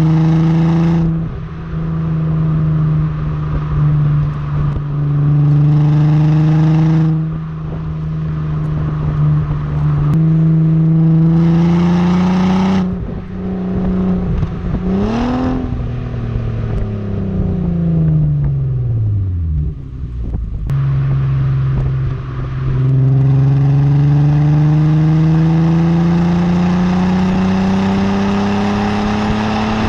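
VW Golf MK4 2.8 V6 (BDE, VR6) engine through a Friedrich Motorsport stainless-steel silencer and stock catalytic converter, pulling under acceleration. Its pitch climbs and drops back at gear changes about three times. In the middle the revs fall away in a long glide, then climb steadily again near the end.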